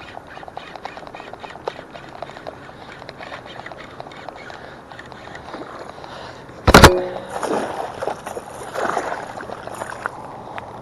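A hooked bass splashing at the water's surface during the fight: a run of faint rapid ticks, then one loud splash about seven seconds in, followed by a few seconds of sloshing and thrashing.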